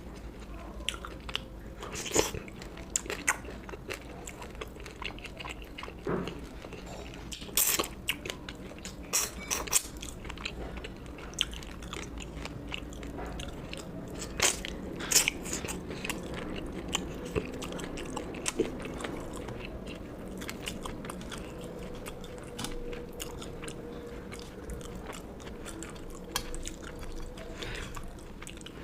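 Close-miked eating: a person chewing and biting mouthfuls of food, with irregular sharp crunches and clicks, over a steady low hum.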